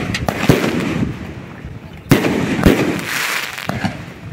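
Aerial fireworks going off: a run of sharp bangs, the loudest about half a second and two seconds in, with crackling between them.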